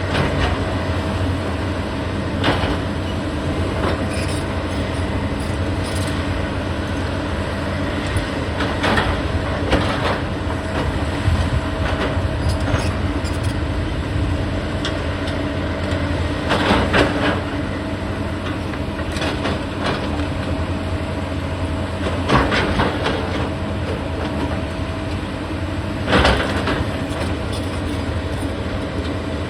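Heavy demolition machinery running steadily, a deep diesel engine hum, with about six louder crunches and clanks of breaking material at irregular intervals.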